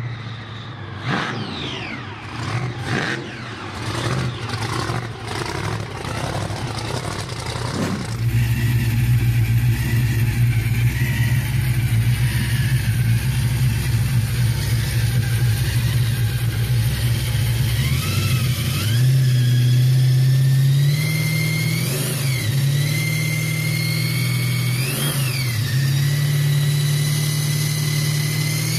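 Supercharged V8 hot rod accelerating away with a rough, crackling exhaust. Then a Roots-type supercharged, carburetted V8 idling lumpily and blipped three times, with the blower's whine rising and falling with each blip.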